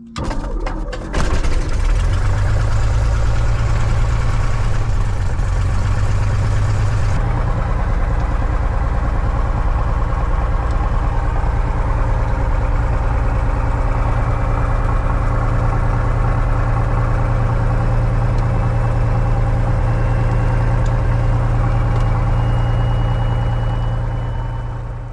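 A 1967 light airplane's piston engine is cranked and catches about a second in, then runs steadily. A high hiss drops away about seven seconds in, and the sound fades out just before the end.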